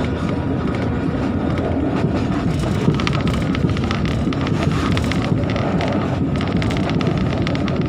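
Passenger train running at about 67 km/h, heard from inside the coach: a steady rumble of wheels on the track mixed with air noise, with a few light ticks now and then.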